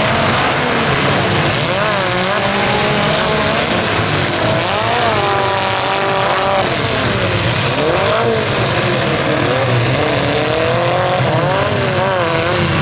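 Several compact demolition-derby cars' engines revving, their pitch rising and falling repeatedly and overlapping, over a steady din.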